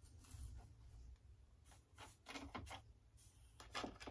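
Near silence with faint handling noises: a few short rustles and light clicks of small parts being handled at a workbench, over a low room hum.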